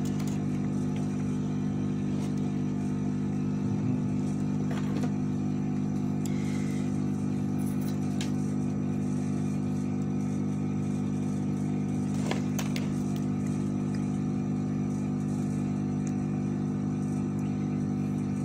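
Steady electric fan or motor hum at the workbench, unchanging throughout, with a couple of faint small taps of tools.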